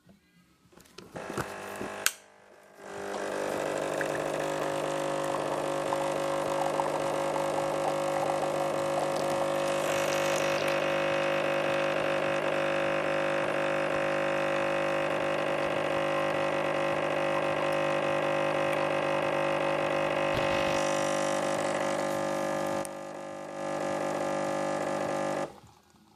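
Silvercrest SEMM 1470 A1 espresso machine's pump buzzing steadily for about twenty seconds, after a few clicks at the start; it drops briefly near the end, then stops suddenly.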